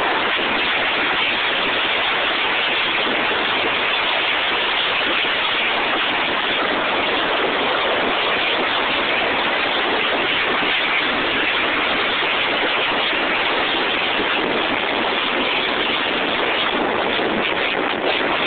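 Steady rushing noise of wind and road inside a Maruti Suzuki Esteem driving at high speed.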